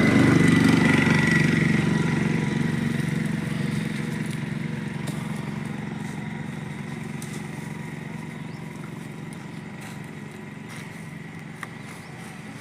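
An engine running at a steady speed, getting steadily quieter over the whole stretch.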